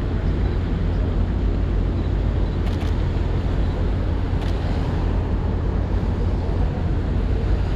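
Steady low rumble of city street traffic with a hiss over it, with a few short clicks around the middle.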